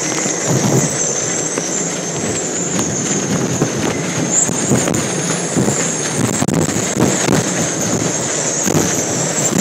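Hurricane-force wind blowing steadily and buffeting the microphone in crackling gusts, with a high wavering whistle over it.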